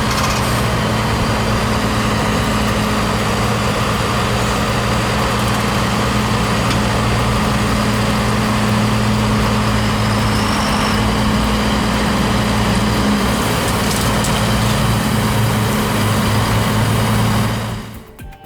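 Heavy truck diesel engine running steadily at a constant pitch, cutting off near the end.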